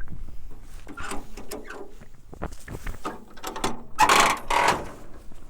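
The steel tailgate of a Suzuki mini truck being unlatched and let down: a run of metallic clicks and rattles, with a louder clatter just after four seconds in.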